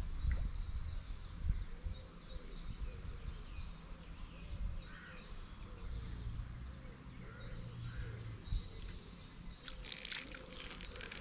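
Several small birds chirping and singing around a lakeside, with a low rumble of wind on the microphone. Near the end comes a short burst of rustling and clicks.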